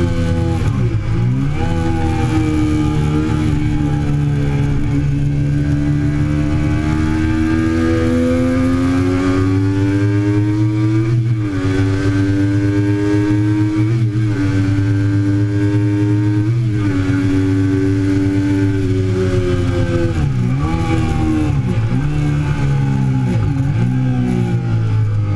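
2008 Triumph Daytona 675's three-cylinder engine at racing speed, its note climbing and falling with the throttle. The note is broken by brief sharp dips at each gear change, with three in quick succession near the end.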